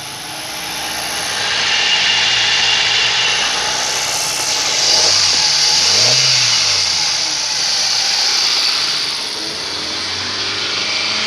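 2017 Kia Rio's 1.4-litre petrol engine running on test, revved once about six seconds in and starting to rise again near the end; the seller reports that the engine tested good.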